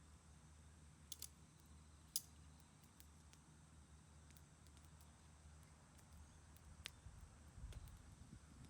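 Near silence with a low steady hum and a few separate sharp clicks, the sharpest about two seconds in.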